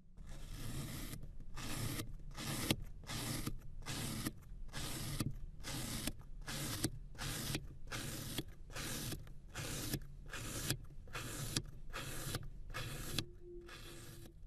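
Rhythmic scraping strokes, about two a second, over a low steady hum. They stop about a second before the end, leaving a faint steady tone.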